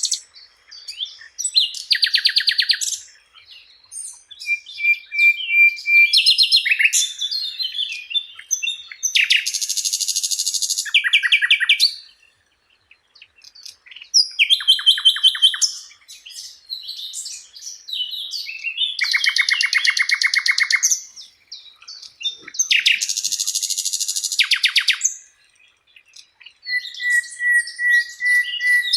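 Sikatan londo flycatcher singing in separate phrases, each a second or two long with short pauses between: fast high trills and rattles, buzzy runs and a few short held whistles.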